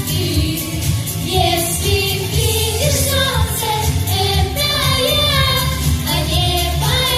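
A children's vocal trio singing a song, with sustained sung notes over a steady musical accompaniment.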